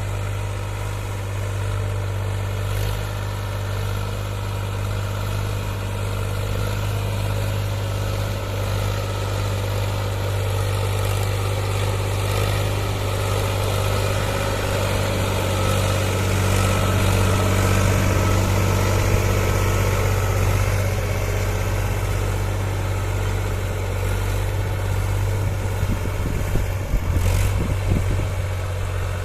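Powertrac Euro 47 tractor's diesel engine running steadily, swelling a little past the middle, with some rattling near the end.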